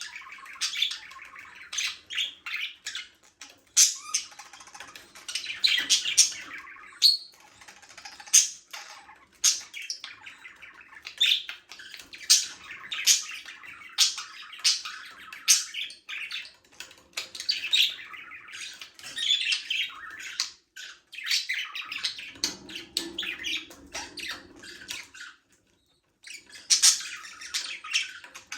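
Several budgerigars chirping and chattering in rapid, overlapping calls, with a short lull near the end.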